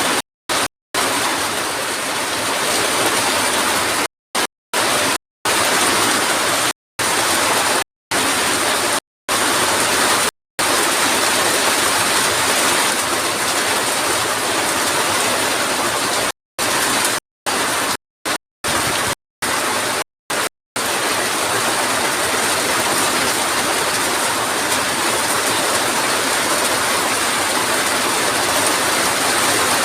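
Heavy rain pouring down steadily, a dense even hiss. The sound cuts out to silence for a split second a dozen or so times in the first twenty seconds.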